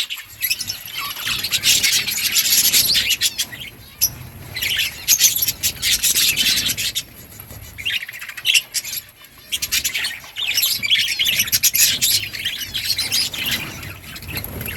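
Budgerigars chirping and chattering, a dense scratchy warble that comes in clusters with brief lulls.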